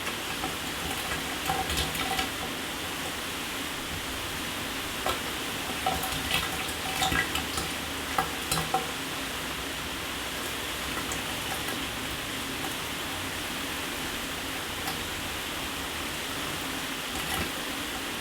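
Shower water spraying steadily onto a hard surface, with irregular louder splashes and spatters in the first half.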